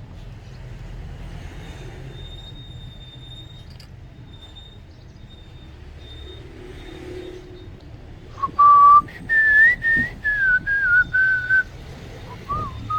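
A person whistling a short tune of several held notes, starting about eight seconds in, over a low steady hum.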